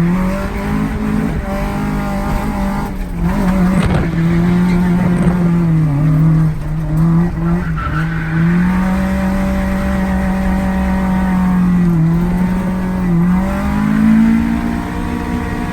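Toyota AE86's BEAMS 3S-GE four-cylinder engine held at high revs through a drift run, its pitch dipping briefly a few times and climbing back, with tyres squealing.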